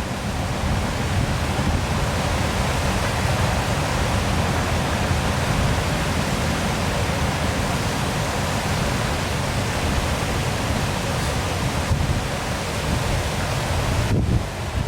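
Waterfall, a steady rush of falling and splashing water, briefly dipping near the end.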